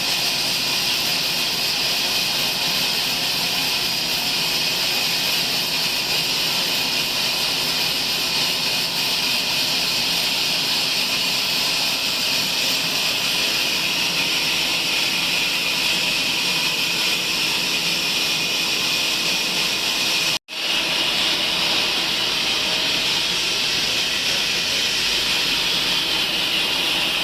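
Sawmill bandsaw running with a steady high hiss and a faint low hum. The sound breaks off for an instant about twenty seconds in, then resumes unchanged.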